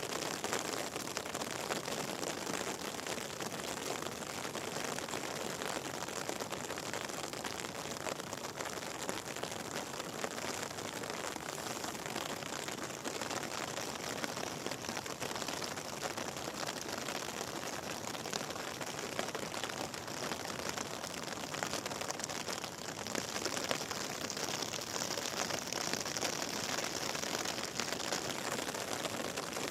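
Steady rain, a dense even patter of drops, getting a little brighter and louder for several seconds near the end.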